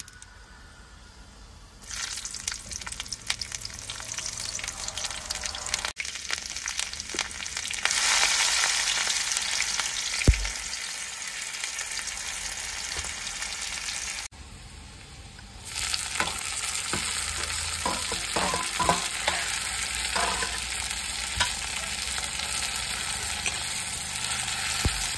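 Chopped onion, chilli and tomato sizzling in hot oil in a pan while being stirred, with a few scrapes of the spatula against the pan. The sizzle starts about two seconds in and drops away briefly past the middle.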